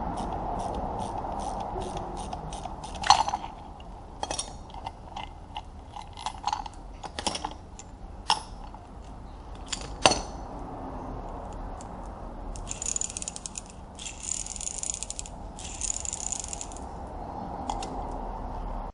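Hand tools working on metal parts: a ratchet wrench clicking rapidly, sharp metal clinks and knocks, then three separate bursts of hissing near the end.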